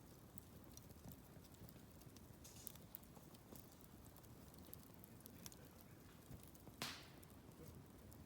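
Wood campfire crackling faintly, with scattered small pops and one louder snap about seven seconds in.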